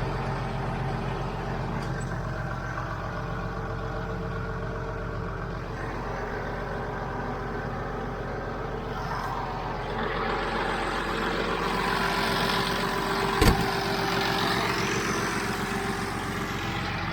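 International Harvester 886 tractor's diesel engine running steadily with a John Deere 348 square baler working behind it. A rushing hiss grows louder from about ten seconds in, and a single sharp knock comes about thirteen seconds in.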